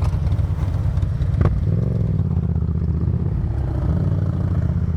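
Yamaha FZ-07's parallel-twin engine running steadily while riding at low speed, with a single sharp click about a second and a half in.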